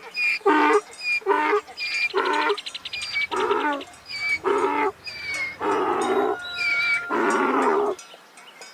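A cat meowing about nine times in quick succession, each call around half a second long, the last few longer and wavering. Small birds chirp between the meows.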